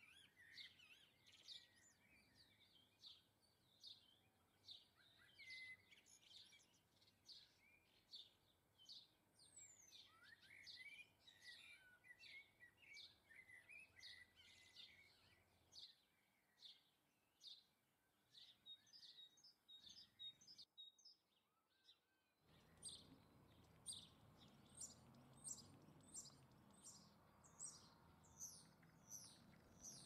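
Faint chirping and twittering of small garden birds: many short, quick high notes repeated throughout, breaking off briefly about two-thirds of the way in, then resuming as a steadier run of chirps, a few a second.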